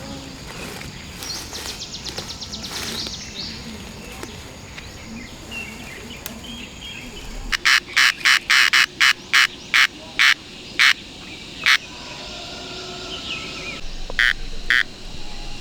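A bird calling a run of about a dozen loud, short, sharp notes that slow down as they go, then two more after a pause.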